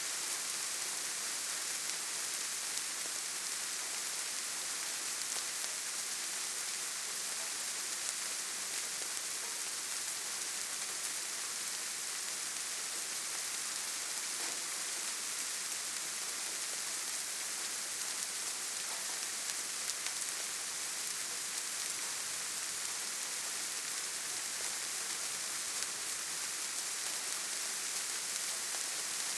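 Steady rainfall in a forest, an even hiss of rain on leaves and ground without thunder or other events.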